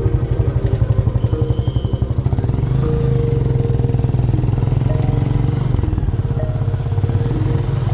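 Motorcycle engine running, its exhaust beating in a low, rapid, even pulse, with held music tones underneath.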